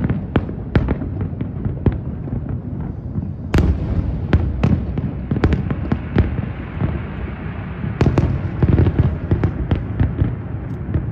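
Aerial fireworks display: shell bursts going off in quick succession as sharp bangs and crackles over a continuous low rumble. Heavier clusters of bangs come about three and a half seconds in and again at about eight seconds.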